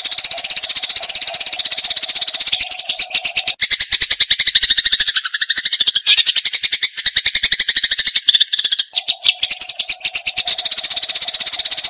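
Eurasian tree sparrow giving its rapid, unbroken 'fighting' chatter: a very fast stream of high chirps that runs on without a break. In the middle of the run the notes dip lower. A steady low tone sits underneath at the start and near the end.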